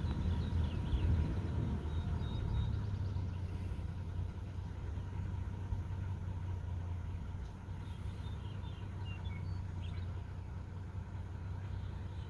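Steady low rumble under light rain hiss, with small birds giving short high chirps in a few brief clusters: near the start, about two seconds in, and again around eight to ten seconds.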